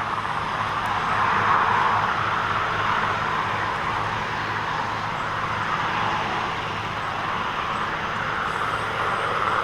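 Marine helicopter's engines and rotors making a steady drone as it comes in to land, heard across open water.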